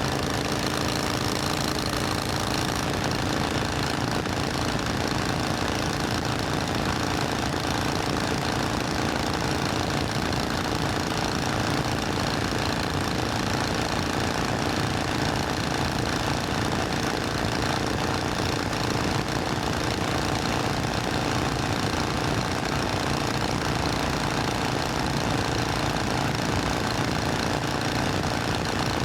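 Supercharged Triumph Thunderbird Storm's 1700 cc parallel-twin engine running steadily, with no revving.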